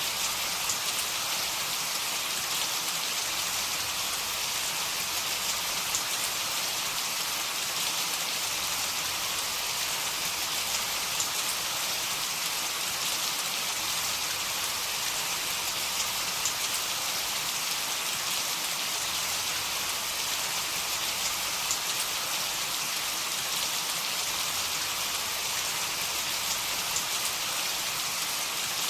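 Heavy rain falling steadily: an even, unbroken hiss with scattered sharp ticks of single drops.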